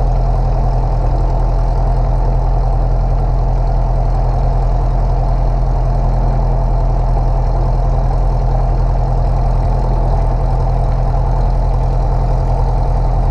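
Light airplane's piston engine idling steadily at low power, heard from inside the cockpit.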